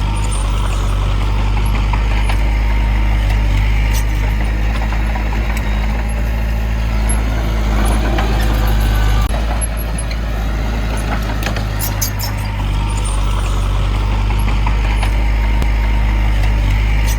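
Heavy diesel engine of earthmoving machinery running steadily at a constant pitch, with a few sharp knocks about four and twelve seconds in.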